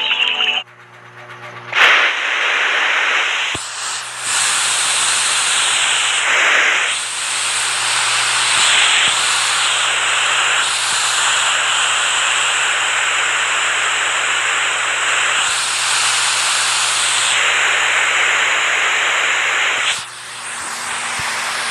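Steady rushing water noise that starts suddenly about two seconds in, swelling and easing slightly, then changes to a softer rushing near the end.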